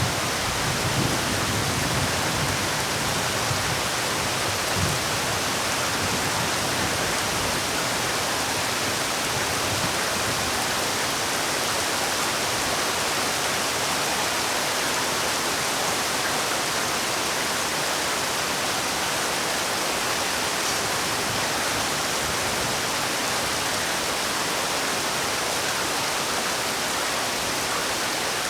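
Heavy rain falling in a steady, even hiss, with a faint low rumble in the first few seconds.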